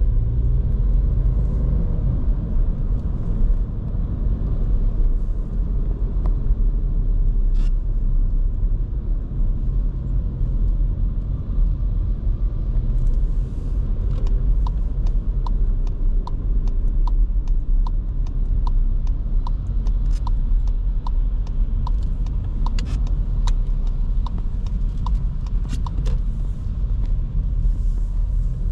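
Cabin sound of a 2023 Škoda Kamiq 1.0 TSI driving in town: a steady low rumble of road noise and its three-cylinder turbo petrol engine. About halfway through, the turn-signal indicator starts ticking evenly, a little more than once a second, and stops shortly before the end.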